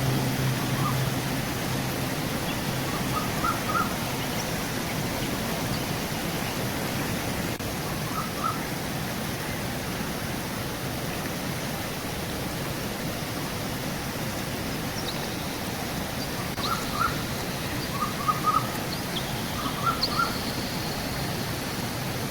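Steady rush of river water, with birds calling over it in short clusters of two or three chirps, and a few thin, high whistled notes in the last third.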